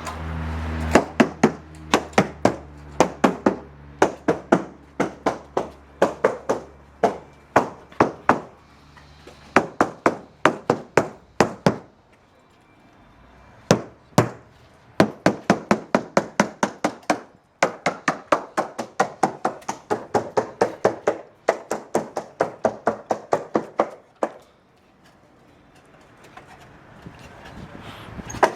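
Repeated sharp, ringing strikes of a tool against the hauled-out boat's hull or underwater fittings, about three or four a second, in runs with short pauses, fading out near the end.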